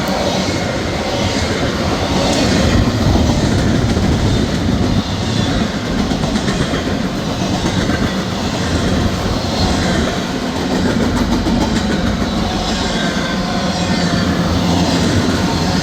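A train rolling past, its steel wheels clattering steadily over the rails.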